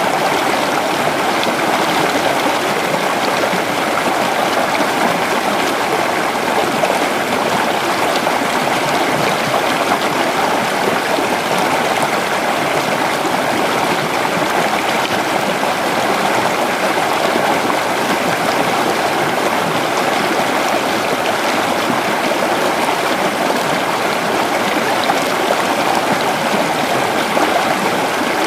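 Creek water running steadily over rocks: a constant, even rushing and babbling with no breaks.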